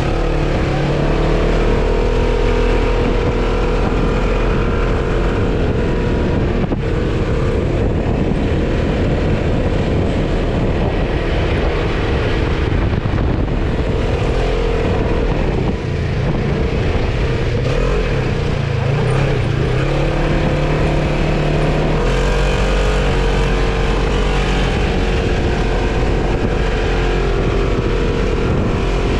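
Off-road vehicle engine running continuously, its pitch rising and falling as it revs up and eases off.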